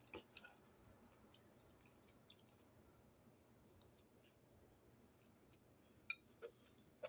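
Faint chewing of crispy gnocchi, mostly near silence with soft mouth clicks, and a few sharper clicks in the last second.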